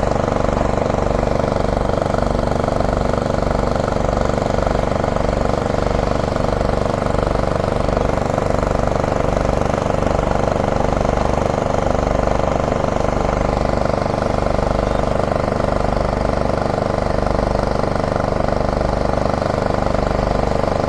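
Diesel engine of heavy demolition plant running steadily at constant speed, with an even low pulsing throb.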